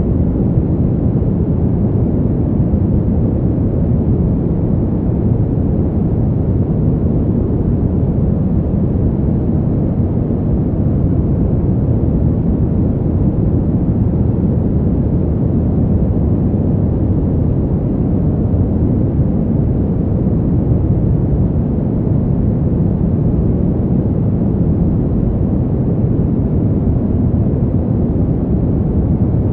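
Steady, deep wind noise: an even, dull rush with no gusts or changes, as in a winter-wind white-noise track.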